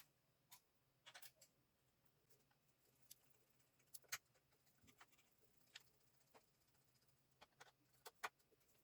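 Faint, irregular light clicks and taps, about a dozen, the sharpest around four and eight seconds in, as small parts are handled during work on a small metal lathe. A faint steady hum lies underneath.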